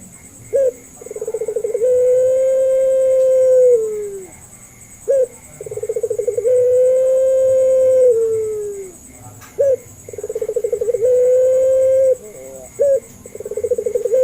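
Puter pelung dove, a domestic ringneck dove bred for its long coo, cooing again and again. Each call is a short note, then a rolling trill, then a long steady coo that falls away at the end. There are three full calls, and a fourth starts near the end.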